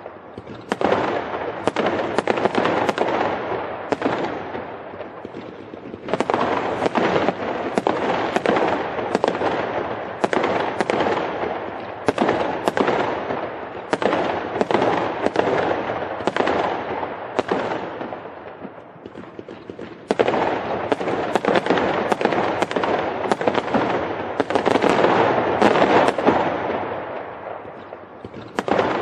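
Fireworks going off in a dense, continuous barrage of sharp bangs and crackle, swelling and easing back every six to eight seconds.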